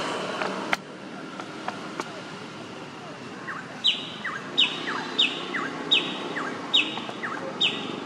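A bird calling a repeated two-note call, each a quick falling chirp, six times about two-thirds of a second apart, starting about halfway through. A sharp click comes just under a second in.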